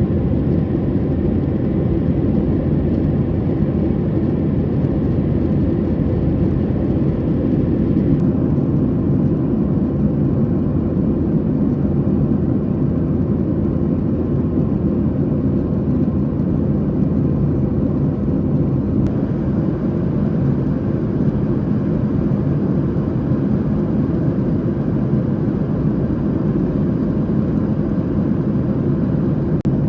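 Steady cabin noise inside a Boeing 737-800 in flight: a constant low rumble of its CFM56 jet engines and the airflow over the fuselage.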